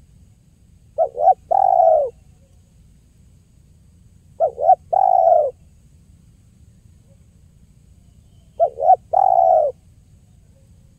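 Spotted dove (tekukur) cooing: three calls about three and a half seconds apart, each two short notes followed by one longer note.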